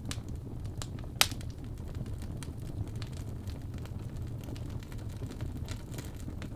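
Wood fire crackling: a steady low rumble of flames with scattered small pops, and one sharper, louder pop about a second in.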